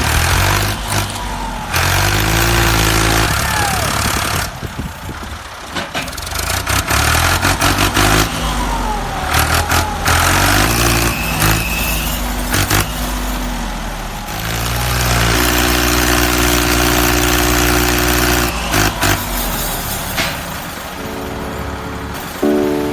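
Engine running and changing pitch, starting and stopping several times, with a steady hum from about fifteen seconds in. Music comes in near the end.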